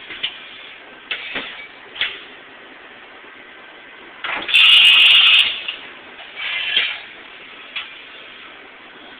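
1989 Matsuura MC-510V CNC vertical mill's mechanisms working through a series of clunks and clicks. Around the middle comes a loud hiss lasting about a second, followed by another shorter burst and a last click.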